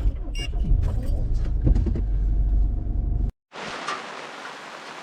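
A motor vehicle driving, a loud low rumble with a few sharp ticks. This cuts off suddenly about three seconds in and gives way to steady rain falling.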